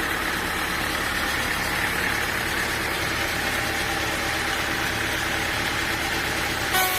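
Sawmill machinery running steadily with an engine-like drone and hiss. The sound changes abruptly just before the end.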